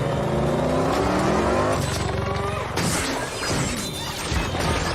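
A car engine revving hard, its pitch climbing over about two seconds, followed by a rapid series of sharp crashes and shattering impacts.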